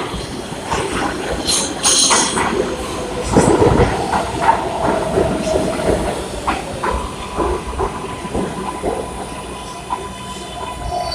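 New York City subway train, a Kawasaki R142A, running on the track: wheels clattering and knocking over rail joints, with a hiss and a thin steady wheel squeal.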